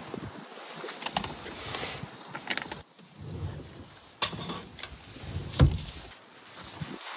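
Irregular rustling broken by several sharp knocks and clicks, the loudest about five and a half seconds in.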